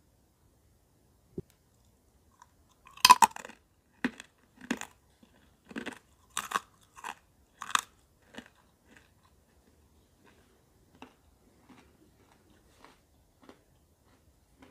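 A person bites into a crisp cardamom sugar snack about three seconds in, the loudest crunch, then chews it with about seven sharp crunches over the next five seconds. After that the crunches grow fainter and sparser as the chewing goes on.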